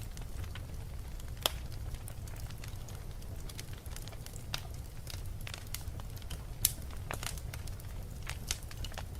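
Wood fire burning in a fireplace: a steady low rumble with scattered crackles and sharp pops, the loudest about a second and a half in and near seven seconds in.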